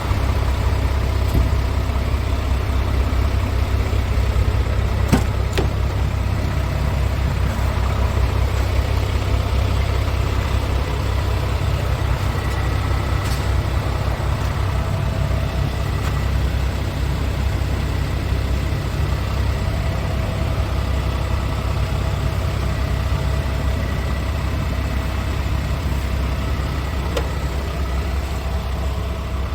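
Diesel engine of a 2007 Scania P230 truck idling steadily, a deep even rumble, with a couple of brief clicks.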